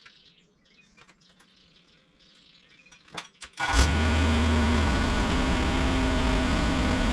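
An engine starts suddenly a little over halfway through, after a couple of clicks, and runs on steadily and loudly.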